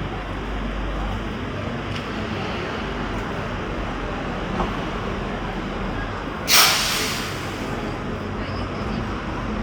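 Street traffic noise with a sudden loud hiss about six and a half seconds in that fades quickly, typical of a bus's air brakes releasing.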